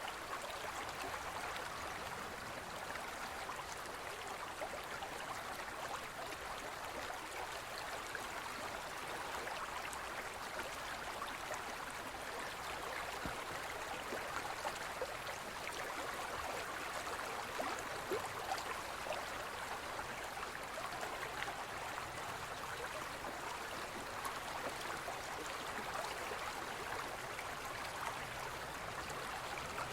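Shallow forest river running steadily over stones, a continuous babble with many small splashes and trickles.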